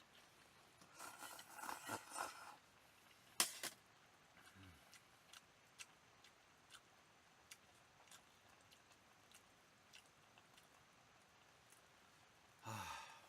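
Near silence with small handling sounds: a brief rustle, one sharp click about three and a half seconds in, then scattered faint ticks.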